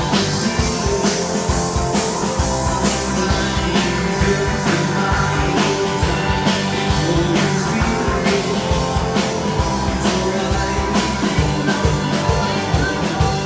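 Rock band playing an instrumental passage, with electric guitar over bass and a steady drum beat.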